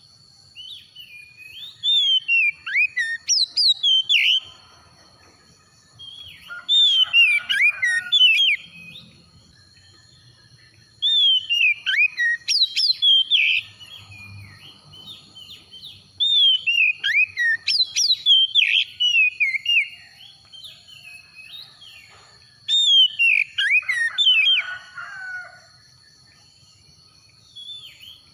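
Oriental magpie-robin (kacer) singing in phrases of rapid, varied whistles and chirps with many quick pitch glides. Five phrases of two to three seconds each are separated by short pauses, and a sixth begins at the very end.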